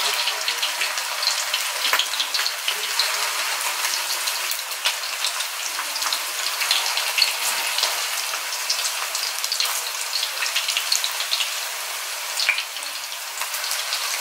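Minced-meat kebabs shallow-frying in hot oil, a steady sizzle with frequent small crackles as fresh kebabs are laid into the oil one by one.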